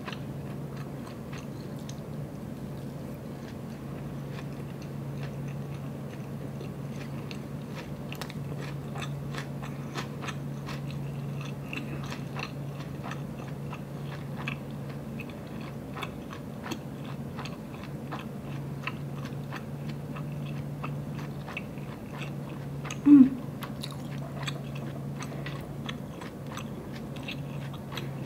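Chewing a mouthful of inari sushi, fried bean curd pouch with rice, topped with vegan mayo and green onion: many small wet mouth clicks over a steady low hum. One brief hum of the voice near the end.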